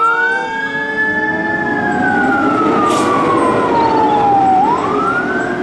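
Fire engine's siren wailing as the truck drives along the road. The pitch rises, holds, falls slowly over about three seconds, then rises again near the end, over the rumble of the moving truck.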